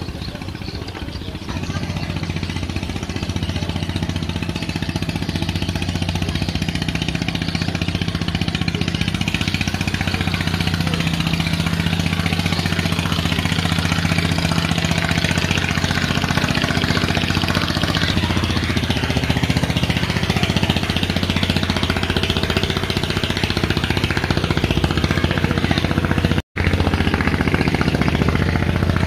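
Speedboat engine running steadily with a low drone, getting louder about a second and a half in and cutting out for an instant near the end.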